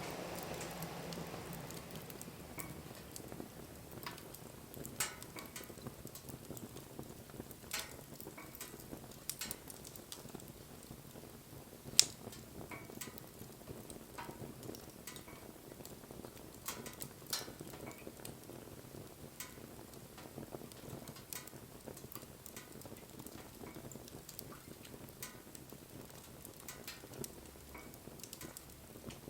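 Wood fire crackling, with irregular small pops and clicks over a soft hiss and one much louder pop near the middle.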